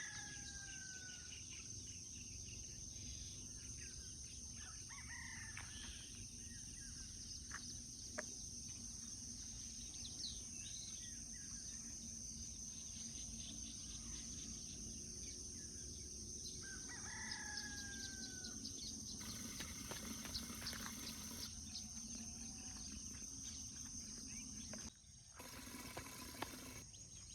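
Roosters crowing a few times, faint, with smaller birds chirping, over a steady low hum.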